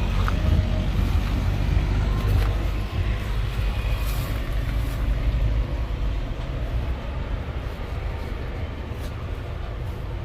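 A motor vehicle's engine running with a steady low rumble, easing slightly partway through.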